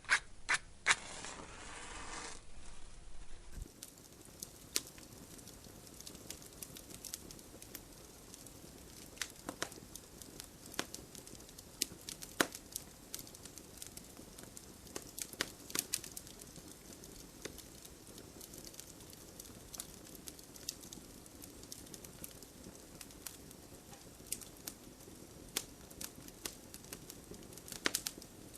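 Campfire burning: a steady low hiss of flames with wood crackling and popping in sharp, irregular snaps. For the first three and a half seconds a louder rushing sound sits under the crackle.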